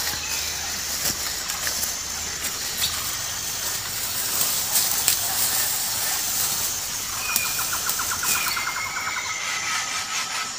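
Forest ambience: birds calling over a steady high hiss, with a rapid chirping trill about seven seconds in and thin whistled notes near the end.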